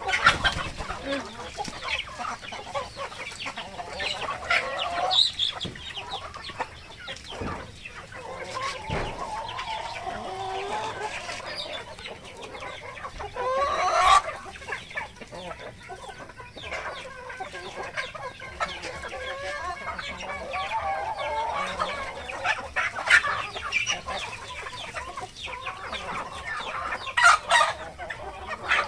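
Native chickens clucking continuously, with louder calls about halfway through and again near the end.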